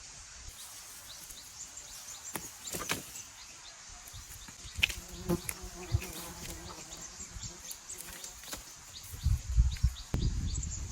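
A flying insect buzzing close by for a few seconds in the middle, over a steady run of short, high chirps. There are a few sharp clicks along the way, and a low rumbling noise near the end.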